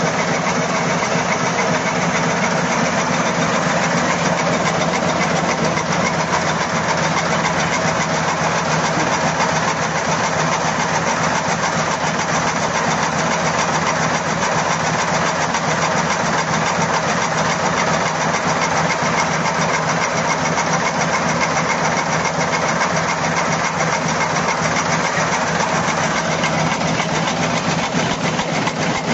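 Paper-napkin production machine running steadily at speed, a dense, even mechanical clatter over a steady hum.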